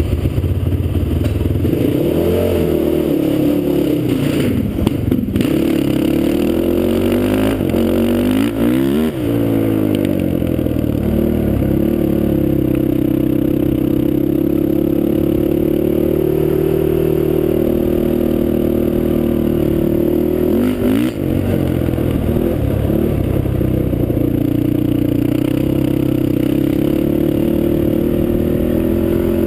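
Honda TRX450R quad's single-cylinder four-stroke engine, a Janssen-built motor breathing through a Motoworks exhaust, running loudly at a mostly steady pitch. The revs swing up and down briefly a few seconds in, again near the ninth second, and about two-thirds of the way through.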